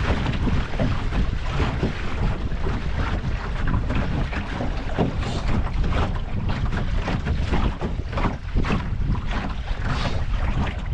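Wind buffeting the microphone aboard a small wooden Mirror sailing dinghy under way, with water splashing and slapping against the hull in frequent short bursts.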